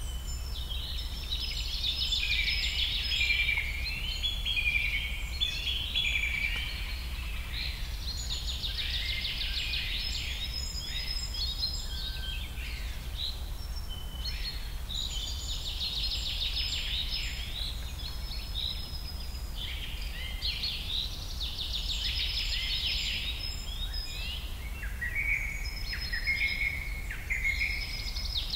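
Several birds chirping and trilling at once in a dense, continuous chorus of high calls that swells and eases in waves every few seconds, over a steady low hum.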